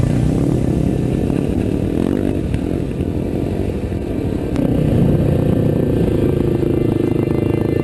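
Enduro motorcycle engine running under way, picking up and getting louder about halfway through.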